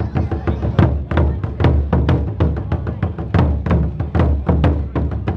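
Taiko drums played in a kimen daiko performance: deep drum strokes about twice a second, with quicker, sharper strokes between them in a fast, steady rhythm.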